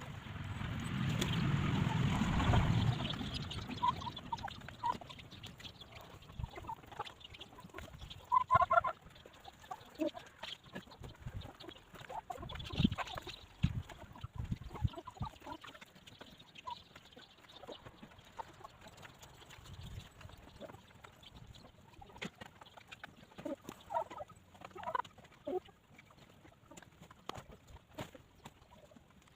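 Hens clucking in short scattered calls, loudest about nine seconds in and again around twenty-five seconds, with many small ticks between them. A loud rush of noise fills the first few seconds.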